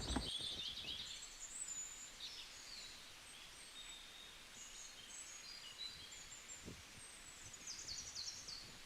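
Faint, high-pitched bird chirps and short trills, scattered and overlapping, over quiet outdoor background noise.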